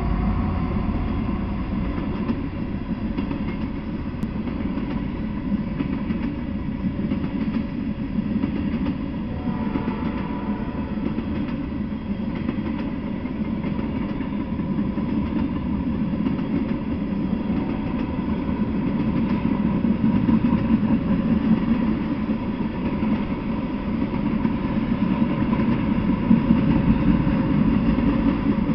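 Freight train of tank cars rolling past: a steady rumble of steel wheels on the rails, growing a little louder in the last third.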